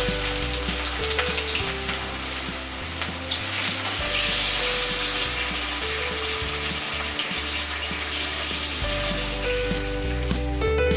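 Sliced onions sizzling and frying in hot mustard oil in a wok. About four seconds in, the sizzle grows louder as marinated chicken pieces go into the oil, and near the end a spatula turns them. Soft background music plays underneath.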